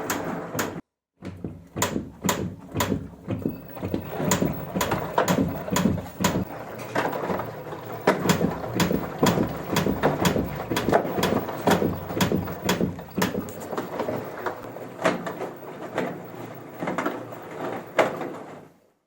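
Irregular, repeated knocking and rattling from an LG washing machine's drum and cabinet, about two to four knocks a second over a rumbling bed of noise.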